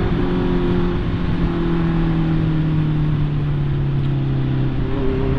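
Honda CB650R's inline-four engine running steadily under the rider, its note sinking slowly as the bike eases off, with wind and road rush.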